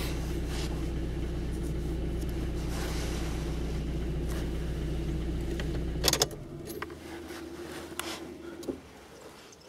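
An older Toyota Corolla's engine idling, heard from inside the cabin as a steady low hum. About six seconds in there is a sharp click and the low hum stops, leaving only faint sounds.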